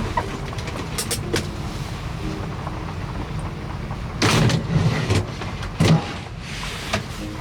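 Vehicle noise: a steady low rumble, with two louder rushing surges about four and six seconds in.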